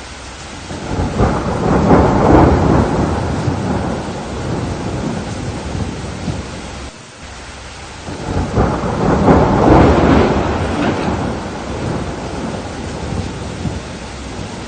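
Two long rolls of thunder over steady rain. Each builds over a second or so and then rumbles away over several seconds; the first cuts off abruptly about seven seconds in.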